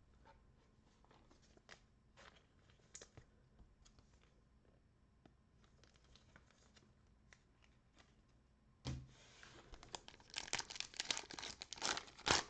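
Faint scattered ticks, then, from about nine seconds in, a cellophane wrapper on a trading-card cello pack being torn open and crinkled, loud and crackly.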